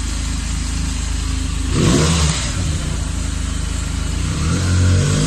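Benelli TNT300 parallel-twin motorcycle engine idling, blipped twice on the throttle: a short rev about two seconds in and a longer one near the end, each dropping back to idle.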